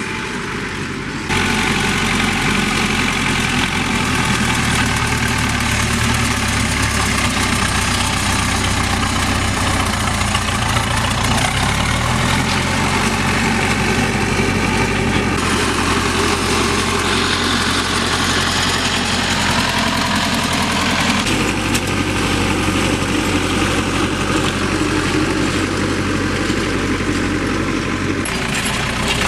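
Zetor 6211 tractor's diesel engine running steadily. It gets louder about a second in, and its note shifts several times.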